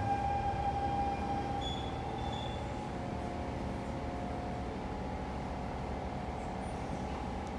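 Interior of a Siemens C651 metro train slowing along the station platform: steady running noise with a whine that weakens about two seconds in.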